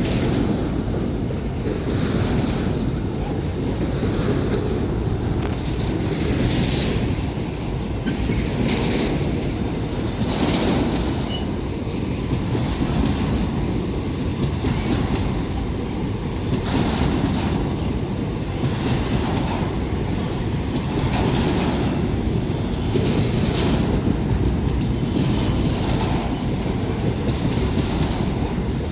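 Freight train rolling past with a steady low rumble, and wheels clacking over rail joints every second or two.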